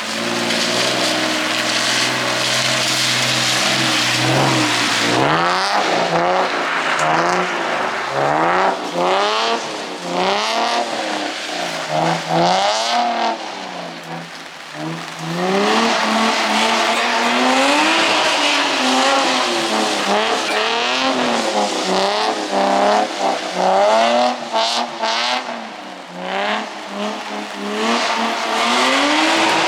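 Drift car's engine held at steady revs for a few seconds, then revving up and down again and again as the car slides, over a steady hiss of tires on wet pavement.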